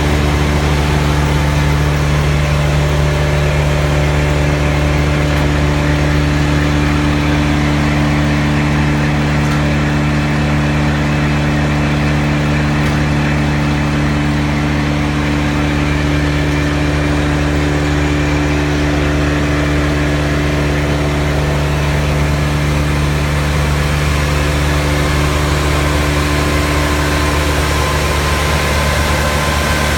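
Morbark Blizzard 12-inch drum chipper's 115 HP Perkins turbo diesel running steadily at a constant speed, a loud, even drone with a strong low hum.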